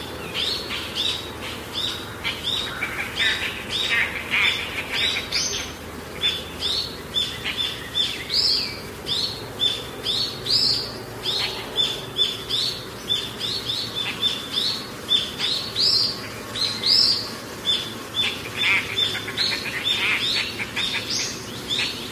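Small birds chirping over and over, several short high calls a second, with busier stretches of overlapping chirps about four seconds in and again near the end.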